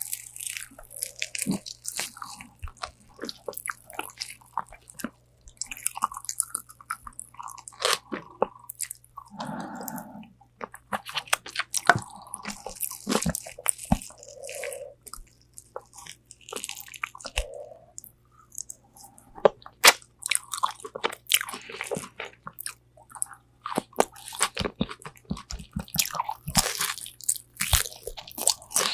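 Close-miked biting and chewing of crispy Korean spicy fried chicken wings: an irregular run of crunching bites and crackling chews, with softer wet mouth sounds in between.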